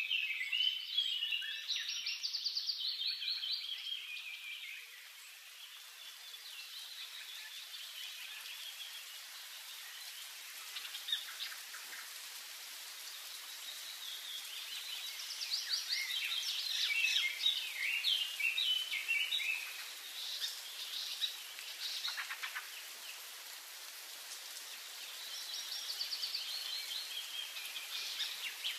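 Several birds chirping and singing over a steady background hiss of outdoor ambience, in bursts of busy song: early on, again in the middle, and near the end.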